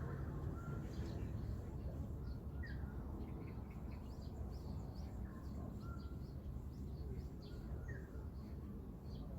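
Several small birds chirping and twittering in short, quick notes, with a few brief whistled notes, over a steady low rumble.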